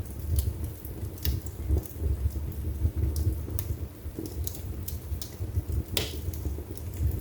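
Wood fire burning in a fireplace: a steady low rumble of flames with irregular crackles and snaps, and one louder pop about six seconds in.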